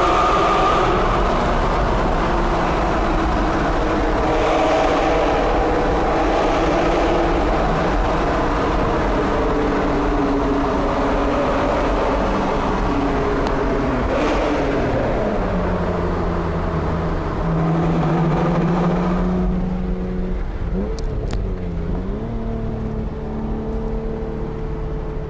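Honda NSX V6 with a Pride V2 exhaust and resonated test pipes, driving under power. The engine note falls in pitch about halfway through and settles lower; near the end it quietens and its pitch dips and rises once.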